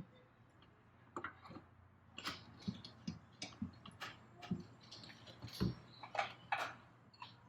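Irregular metallic clicks, taps and knocks of parts and tools being handled while a turbocharger is worked into place in an engine bay. There are roughly one or two a second, each short, a few sharper with a brief ring.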